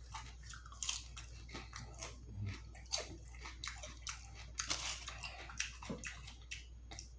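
Close-up biting and chewing of sauced chicken wings: irregular wet, crunchy clicks and smacks from the mouth.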